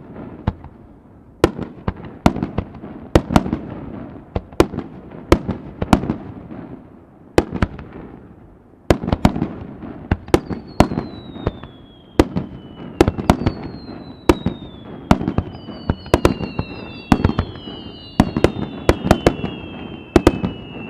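Aerial fireworks going off in quick succession, sharp bangs with a rumbling echo between them. From about halfway, several whistles fall in pitch and overlap as more bangs go off.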